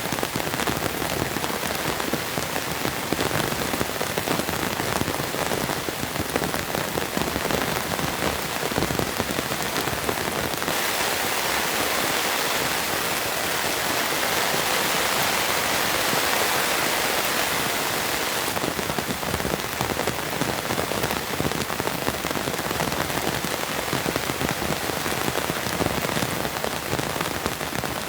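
Steady rain falling, with dense pattering drops. For about seven seconds in the middle it turns to a smoother, brighter hiss, then returns to pattering.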